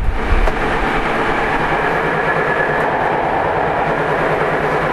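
Tokyu 9000 series electric train running at speed: a steady rumble of wheels on rail with steady motor tones over it.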